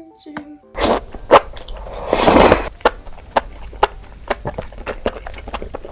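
Close-miked eating of enoki mushroom wraps in jajang sauce: a loud bite a couple of seconds in, then fast, irregular wet chewing clicks.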